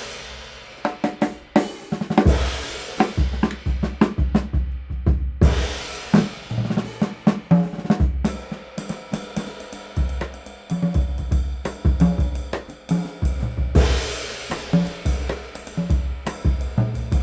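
Drum kit playing a groove, with a 19-inch PGB crash cymbal (1457 g) struck several times and its wash ringing out over kick drum, snare and hi-hat.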